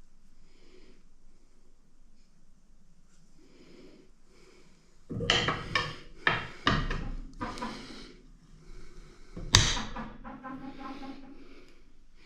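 Metal parts of a rebuilt tractor hydraulic lift cylinder being handled and fitted: after a quiet start, a run of clanks and scrapes, then a single sharper knock a few seconds later.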